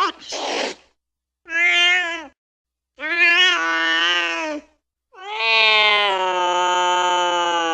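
Domestic cat yowling: a brief hiss at the start, then three drawn-out calls, each longer than the last, the third held steady for over three seconds.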